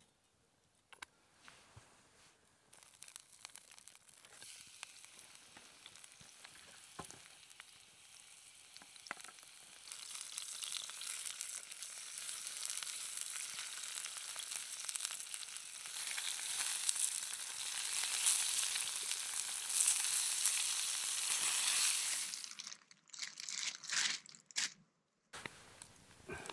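Chicken pieces frying in oil in a steel frying pan over a campfire: a few crackles at first, then a steady sizzle that builds and grows louder, breaking off about three-quarters of the way through.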